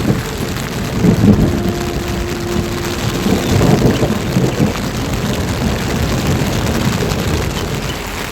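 Rain falling steadily, with low rumbles swelling about a second in and again around four seconds in.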